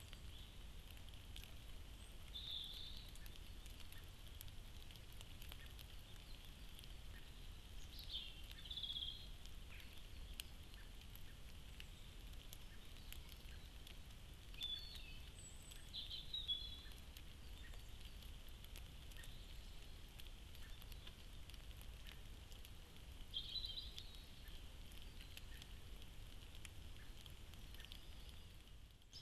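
Faint bird calls: short chirps every few seconds over a steady high hiss, with scattered light clicks.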